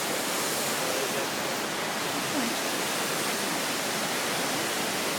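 Steady rush of a waterfall: an even hiss of falling water at a constant level.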